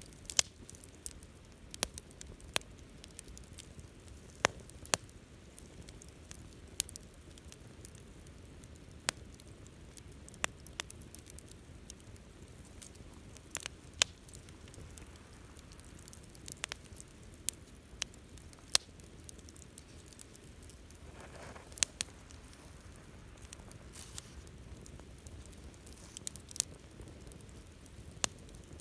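Wood fire crackling, with sharp pops at irregular intervals over a low, steady rush of flame. There is a brief hiss a little past two-thirds of the way through.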